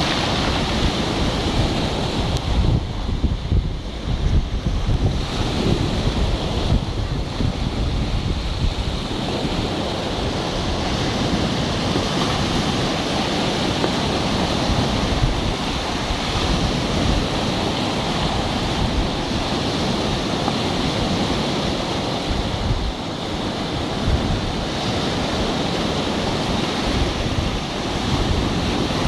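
Black Sea surf washing in continuously, with wind buffeting the microphone in uneven gusts.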